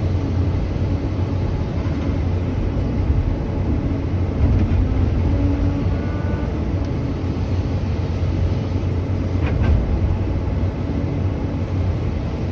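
Truck engine running steadily with a low drone, with a brief click about nine and a half seconds in.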